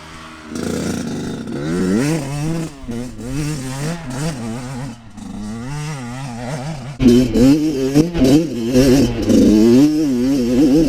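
Kawasaki KX112 two-stroke dirt bike engine revving hard on a steep hill climb, its pitch rising and falling as the throttle works. It gets louder about seven seconds in.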